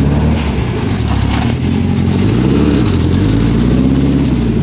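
Peugeot 205 rally car's engine running at low revs as the car pulls away slowly, its pitch rising and dipping a few times with light throttle before settling steady.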